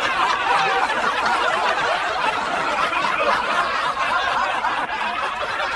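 Several people laughing and chuckling at once, steadily throughout.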